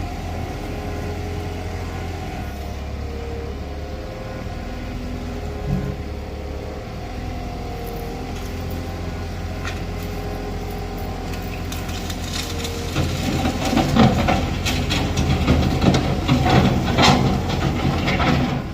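TCM bulldozer's diesel engine running steadily. From about two-thirds of the way in, loud clanking and rattling join it as the machine works.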